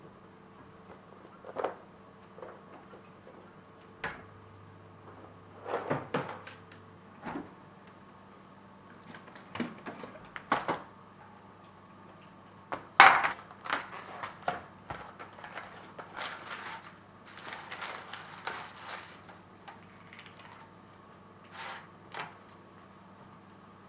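Dishes and crockery being stacked into a dishwasher: irregular knocks and clinks of plates and racks, the loudest about halfway through, over a faint steady hum.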